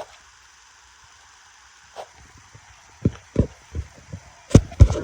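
A faint steady hiss, then from about three seconds in a run of irregular dull thumps and knocks, about eight of them, the loudest near the end.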